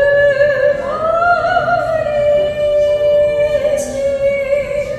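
A high voice singing long held notes with vibrato, sliding up to a higher note about a second in and holding it.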